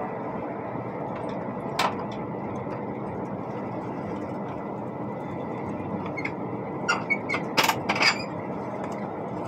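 Steady running noise of an ICE high-speed train heard from inside the carriage. A sharp click comes about two seconds in, and a short cluster of clicks and knocks near the end.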